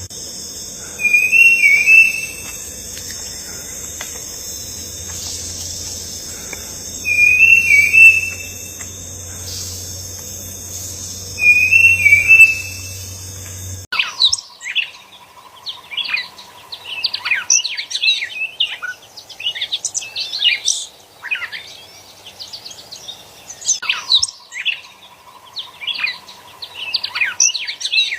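Birds calling. First comes a loud warbling call repeated three times, about five seconds apart, over a steady high buzz and low hum. Then, about halfway through, it cuts to a busy run of many quick chirps and twitters.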